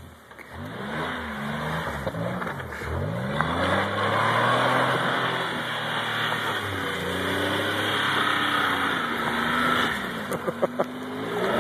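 Toyota pickup truck's engine revving up and down again and again as the truck spins donuts in snow. A few sharp clicks come about ten and a half seconds in.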